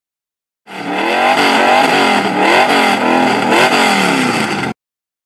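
Car engine revved up and down about four times, cutting off suddenly near the end.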